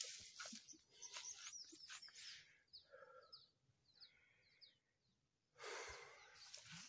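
A small bird giving a quick series of short, down-slurred high chirps, about two a second, over a thin, high, steady buzz. Near the end comes a broad rustling swish, as of tall grass brushed while walking.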